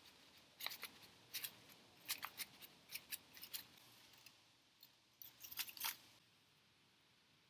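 An irregular run of short, sharp clicks, about a dozen or more in quick clusters, from about half a second in until about six seconds in, then only faint background.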